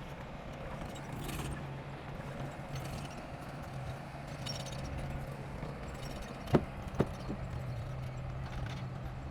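Heavy earthmoving machine's engine running steadily, with two sharp knocks about half a second apart past the middle.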